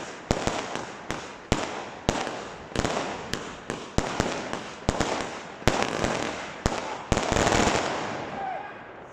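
Fireworks going off: a string of sharp bangs with crackling between them. A dense burst of crackle comes about seven seconds in, then the sound dies away.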